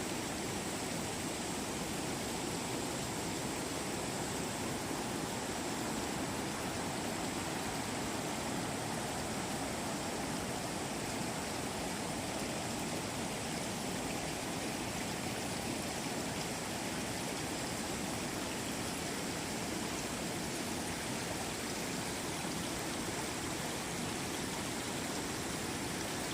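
River water rushing and flowing in a steady, even wash, the river running high after heavy rain.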